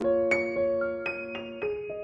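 Background piano music: gentle single notes and chords struck one after another, each ringing on.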